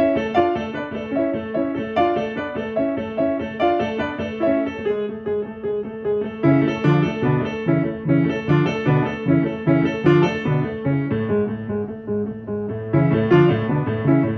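Piano played at practice, a fast, even figure of repeated notes, with lower bass notes joining about six and a half seconds in and the playing growing louder near the end.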